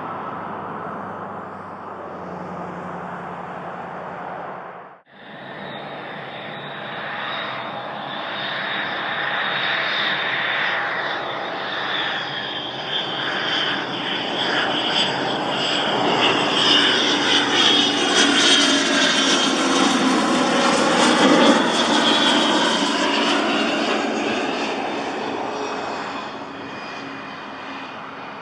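Twin turbofan jet engines of a Cessna 525 CitationJet CJ2 coming in to land. Their hiss and whine grow louder, sweep in pitch as the jet passes closest, then fade. A brief cut about five seconds in separates it from the tail of an earlier airliner's noise.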